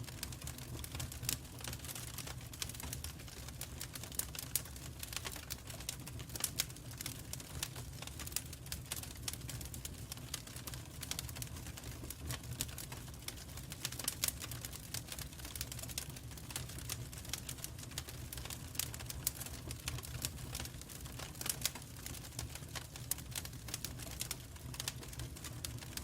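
Fire in a fireplace crackling: rapid, irregular pops and snaps over a low, steady rumble.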